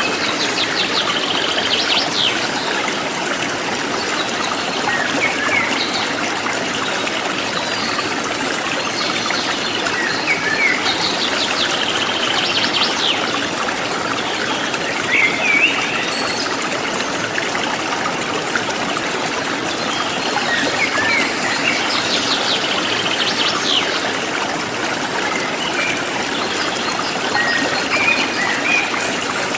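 Steady rush of a forest stream flowing over rocks, with songbirds chirping and trilling over it every few seconds.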